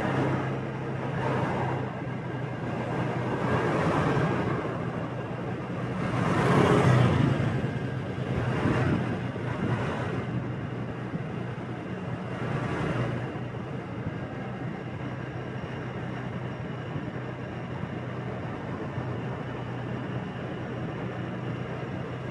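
A motorbike's engine running steadily in street traffic, with other vehicles passing close by several times in the first half, the loudest about seven seconds in.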